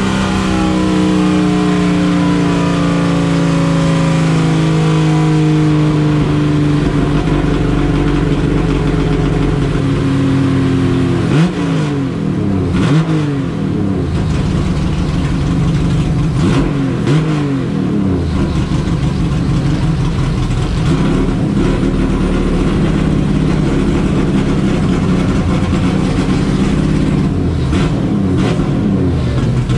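Turbocharged Chevrolet Opala race car engine running. Its pitch falls slowly over the first third as it winds down, then dips and rises a few times in quick blips before settling into a steadier run.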